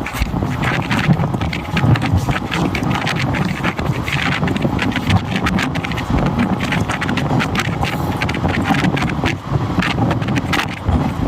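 Indian Railways train running, its wheels clattering over the track with many sharp knocks, and wind rushing over the microphone.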